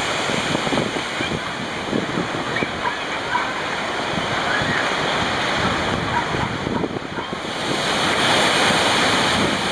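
Steady rush of moving water, like waves washing in.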